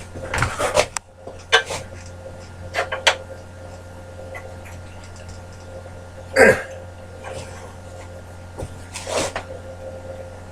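Short knocks and clatters from handling the bandsaw's parts while fitting a bi-metal blade, about five in all, the loudest about six and a half seconds in, over a steady low hum.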